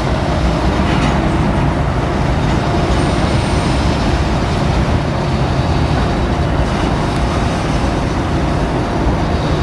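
Steady rumble of a slow-moving freight train's cars rolling through a rail yard, mixed with road traffic noise from an overhead freeway. A short high tone sounds about three seconds in.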